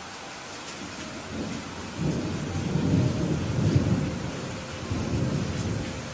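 Rain falling steadily, with a roll of thunder that builds about a second in, rumbles loudest in the middle and fades away near the end.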